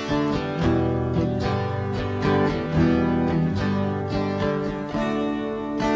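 Instrumental break in a song: acoustic guitar strummed and plucked in a steady rhythm, without singing.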